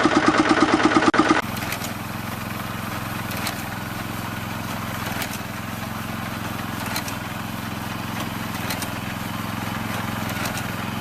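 A small engine running with a fast, even beat, cut off abruptly about a second and a half in. It gives way to a quieter, steady machine hum with a few faint ticks.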